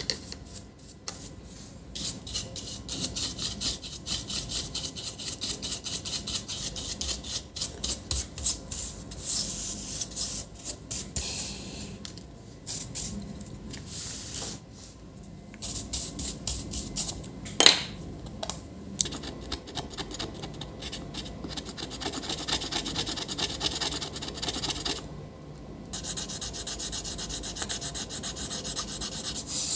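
Rapid scraping and rubbing of a hand tool working against the swollen battery and case of a MacBook Pro, in quick strokes with short pauses and one sharp click partway through.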